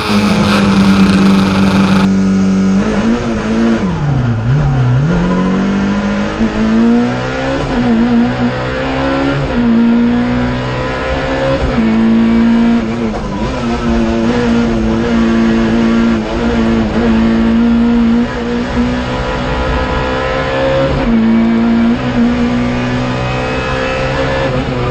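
Racing hatchback's engine at full throttle on a hillclimb run, heard from inside the cockpit. The revs hold steady at first, dip and climb back about four to five seconds in, then rise and hold again and again, broken by quick gear changes.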